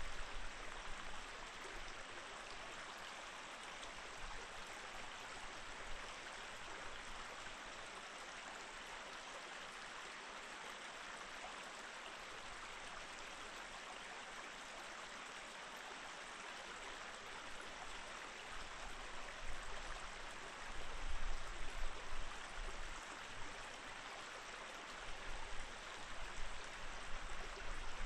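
Mountain stream flowing steadily over rocks, a constant even rushing of water. A few low rumbles come and go in the last third, the loudest moments.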